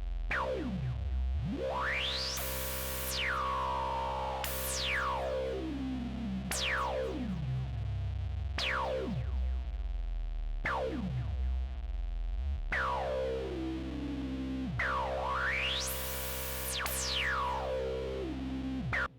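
Yamaha AN200 analog-modelling synthesizer playing sustained low notes, a new one about every two seconds, each with a resonant filter sweep falling in pitch. A couple of the sweeps rise before falling back. The sound cuts off suddenly at the end.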